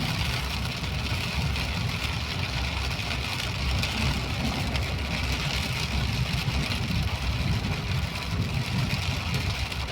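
A vehicle's engine and road rumble, steady and low, with an even hiss of rain over it.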